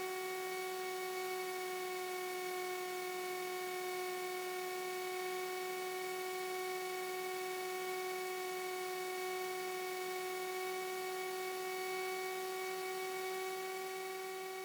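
Steady, unchanging drone of a Cessna 337 Skymaster's engines and propellers in cruise, heard in the cockpit as a hum with a whine of several steady tones. It eases down near the end.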